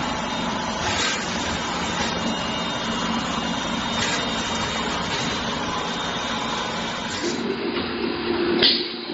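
Paper tube making machine running: continuous mechanical noise with faint steady tones and light knocks roughly once a second. About seven seconds in the sound changes to a lower steady hum, with a sharp knock near the end.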